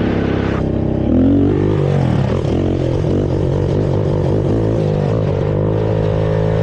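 Honda TRX450R quad's single-cylinder four-stroke engine running on its stock exhaust while riding. About a second in it revs up sharply, then settles into a steady running note.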